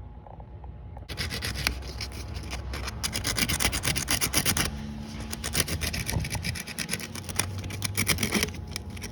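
Rapid back-and-forth abrasive scrubbing of a dirty ignition coil pack wire connection to clean it. The scrubbing starts about a second in and pauses briefly near the middle.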